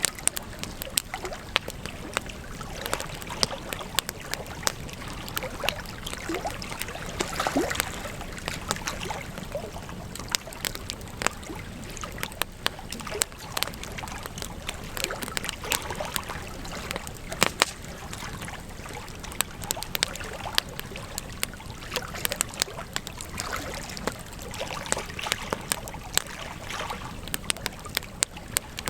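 Wood campfire crackling and popping: many irregular sharp snaps over the steady rush of the burning fire.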